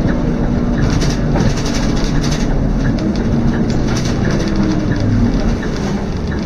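Inside a moving Scania K230UB city bus: its five-cylinder diesel engine droning steadily under way, with the body and fittings rattling in clusters of clicks from about a second in and again around four seconds in.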